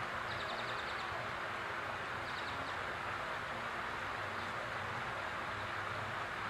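Backyard fountain's water splashing steadily, with a bird giving two short, rapid trills in the first three seconds.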